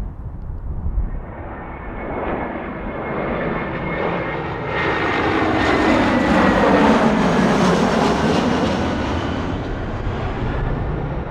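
Jet airliner passing close by, its engine noise swelling to a peak and then easing off. A whine drops steeply in pitch as it goes past.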